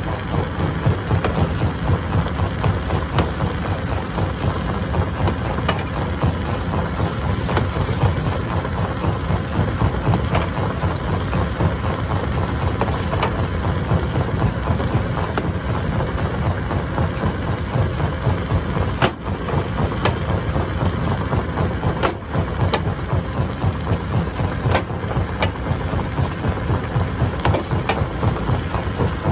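Stone crusher running and crushing rock: a heavy, continuous rumble with a rapid low pulsing, broken by sharp knocks of stone now and then.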